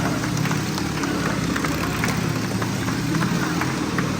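An engine running steadily at idle, with many short light clicks over it.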